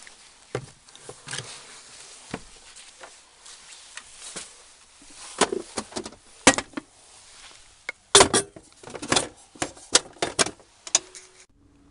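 Irregular clattering and knocking of objects being handled, with clusters of sharp clicks in the second half and a brief ringing tone near the end.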